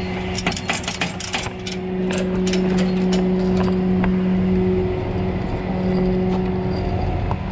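Tow truck's engine running steadily with a low hum, and a quick run of metallic clinks and rattles in the first two seconds as wheel dollies are handled, with a few more clinks later.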